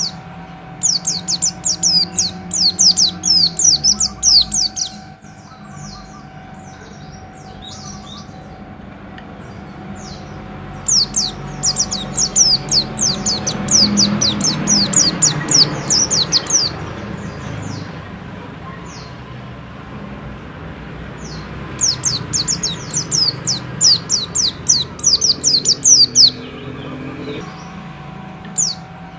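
A pleci bustomi (white-eye) singing in three bouts of rapid, high, sharply falling chirps, each lasting a few seconds, over a steady low background hum.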